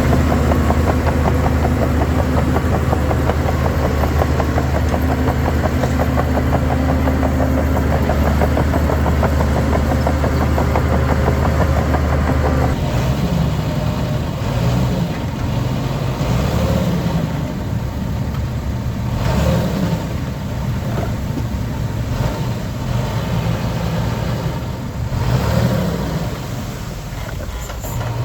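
Heavy diesel engines of earthmoving machinery running. The engine note is steady at first, changes abruptly about halfway through, and then swells and eases several times as the machines work under load.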